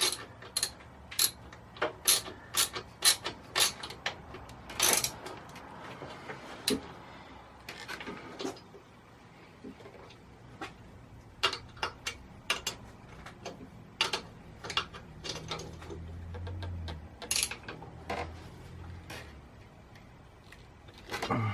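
Hand tools working a steel bolt on a mini bike's light bar bracket: a string of sharp, irregular metal clicks and clinks as the bolt is tightened, thick at first, then sparser with pauses.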